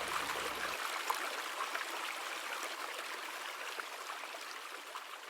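Gentle river running over rocks, a steady rush of water with small splashes, fading out slowly.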